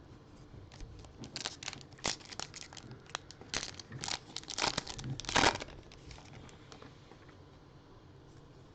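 Plastic wrapper of a baseball card pack crinkling and tearing as it is opened: a quick run of crackles for the first few seconds, then only faint handling.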